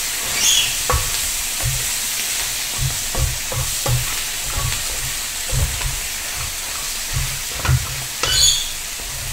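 Oyster omelette sizzling in a frying pan while a spatula turns and scrapes it, with irregular knocks of the spatula against the pan.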